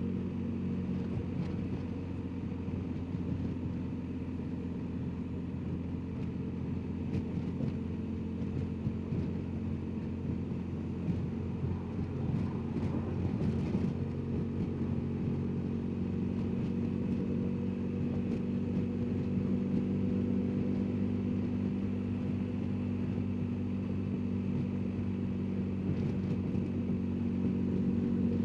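BMW R1250GS Adventure's boxer-twin engine running at a steady cruise while riding, a low, even drone that holds much the same pitch, with a brief wavering about halfway through.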